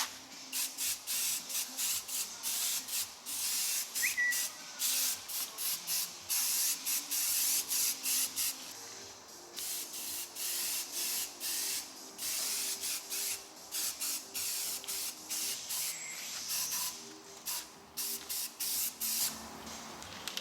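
Spray nozzle hissing in many short bursts, a few a second, with brief pauses between runs.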